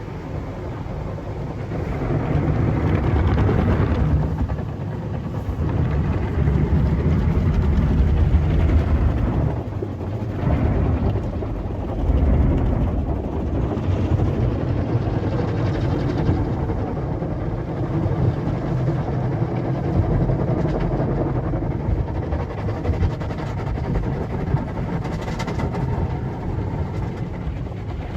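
Sonny's express car wash tunnel equipment running: a steady low rumble that swells and eases every few seconds.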